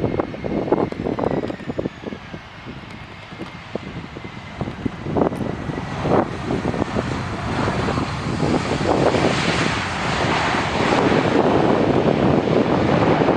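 Jet engines of an Airbus A320-family airliner on landing, a broad roar that builds and grows louder over the second half, with wind gusting on the microphone early on.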